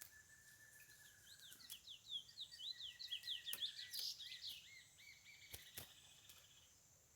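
Chestnut-bellied seed finch (curió) singing: one long whistled note, then a fast run of repeated sweeping notes that fades out about two-thirds of the way in. A steady high hiss and a few sharp clicks sound behind it.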